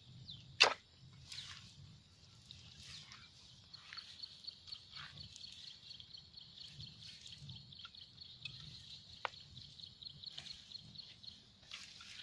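Wild birds calling: short, sharp chirps that fall in pitch, the loudest about half a second in, over a rapid high pulsing trill that runs from about four seconds in to near the end.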